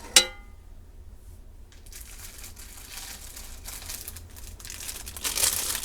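A sharp metal clank that rings briefly, then plastic packaging crinkling and rustling as a bag of naan bread is opened and handled, louder near the end.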